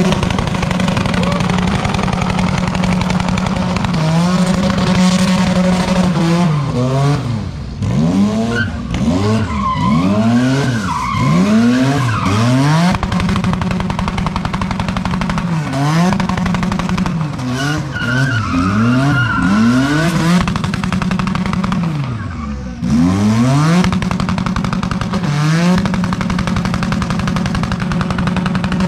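Car engine revving hard during a burnout, held high and steady for long stretches. In two spells it drops and climbs again several times a second, over the hiss of spinning tyres.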